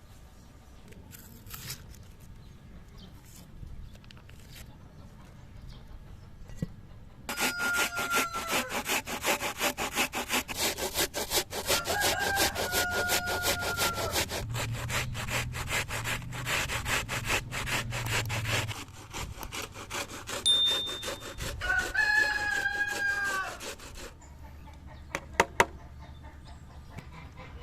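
A rooster crowing three times over a run of fast, rhythmic scraping strokes, about four or five a second, that go on for some ten seconds. Two sharp knocks come near the end.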